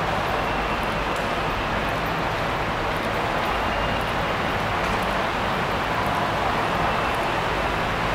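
Steady rumble and rushing noise of a train running, even in level throughout.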